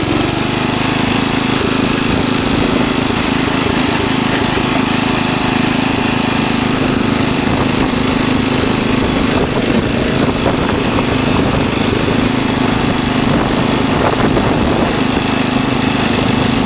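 Lawn tractor engine running steadily at a constant speed.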